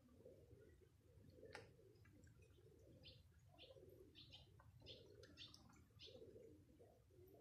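Faint bird calls: short high chirps repeating about twice a second from about three seconds in, over faint low cooing. A single sharp click about a second and a half in.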